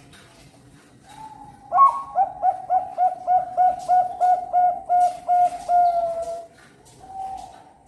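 Zebra dove (perkutut bangkok) cooing. A soft opening coo leads into a fast, rhythmic run of about a dozen short coos, which ends on a longer drawn-out note, and a soft coo follows near the end.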